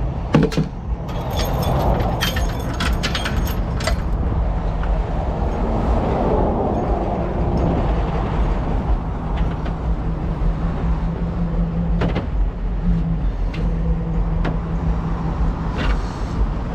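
A vehicle engine idling with a steady low rumble. In the first few seconds there is a run of metallic clinks and jingles, with a few single sharp clicks later. A steady hum joins in about halfway through, breaking off briefly before it resumes.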